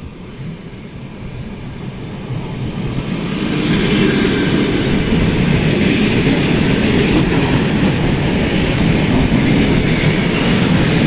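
ED9M electric multiple-unit commuter train running on the rails. Its rumble grows louder over the first few seconds, then holds steady and loud.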